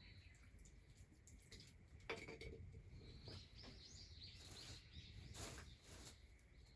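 Faint small-bird chirps in a quiet rural background, with a quick run of short rising chirps about three seconds in. A few soft clicks and a sharper tap about two seconds in.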